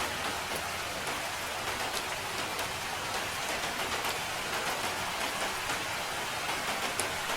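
Steady rain falling, a dense even hiss with the sharp ticks of single drops landing close by.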